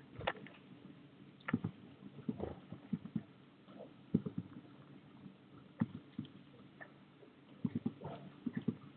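Irregular light taps and knocks of birds moving and pecking at a garden feeder close to the microphone, some single and some in quick little clusters, the busiest run near the end.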